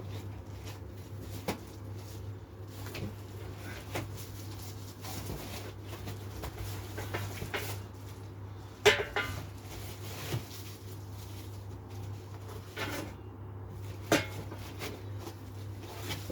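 Scattered knocks, clunks and clicks of power-rack parts and their packaging being handled, the loudest about nine seconds in and again about fourteen seconds in, over a steady low hum.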